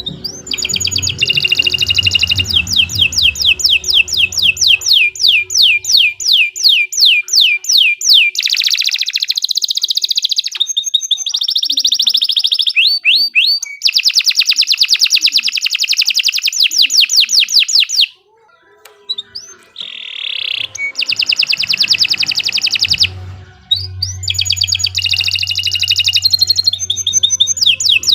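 Domestic canary singing a long, continuous song of rapid trills: quick runs of repeated high notes, one tour after another, with a brief pause about two-thirds of the way through.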